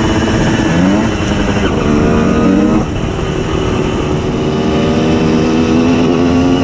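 Tuned 90 cc reed-valve two-stroke Simson S51 moped engine running under way, its revs climbing and falling with gear changes and easing off about three seconds in.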